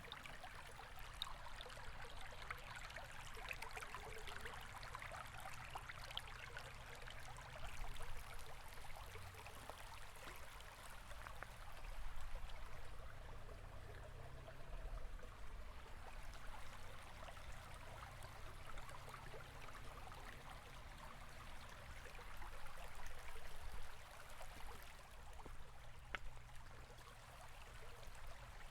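River water running and burbling steadily, a continuous rush with fine splashing and a low rumble beneath.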